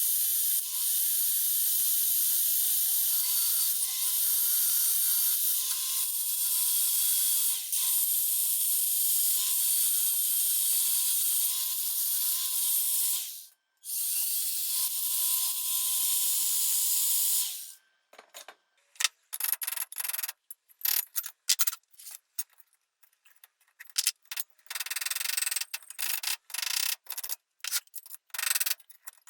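Workshop tool noise: a steady hiss that breaks off briefly partway through and stops about 17 seconds in. It is followed by short, irregular rubbing and scraping strokes with pauses between them, like hand sanding or brushing of a part.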